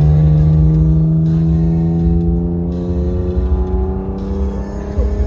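Chevrolet Camaro's engine pulling under steady acceleration, its pitch rising slowly, over a deep rumble.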